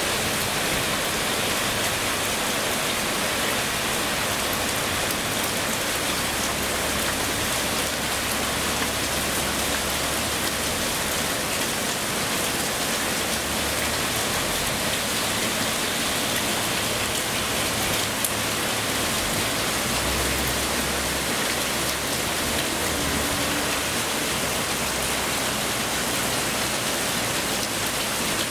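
Heavy rain pouring down steadily in a downpour, a dense, even hiss of rain striking surfaces.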